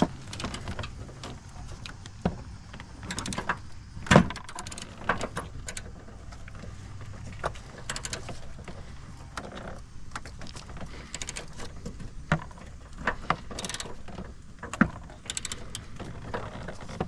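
Hand tools working on a Jeep Liberty's rear upper control arm bolt: scattered metal clicks and clinks of wrench and socket, with a louder knock about four seconds in, over a steady low hum.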